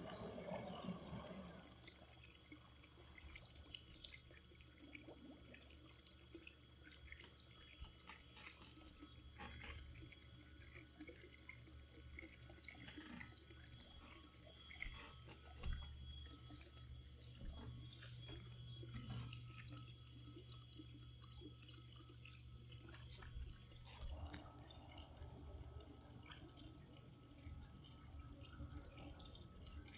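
Faint water dripping and trickling at a swimming pool, with scattered small splashes over a low steady hum.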